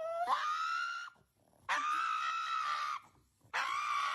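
Pug screaming in three long, high-pitched wails with short gaps between them; the first wail rises in pitch as it starts. This is a dramatic dog's protest cry.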